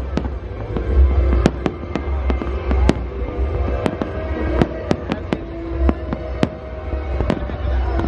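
Aerial fireworks display: shells bursting in quick, irregular bangs and crackles, several a second, over a deep rumble, with music playing underneath.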